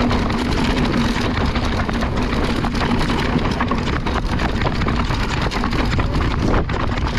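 Mountain bike riding down a rough trail: tyres on dirt and rock, with many short knocks and rattles from the bike and heavy wind noise on the microphone. A faint steady hum runs through the first half.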